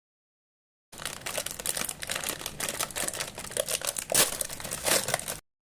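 Crinkling and rustling, as of something being handled and crumpled, with a few louder crackles near the end; it starts about a second in and cuts off abruptly.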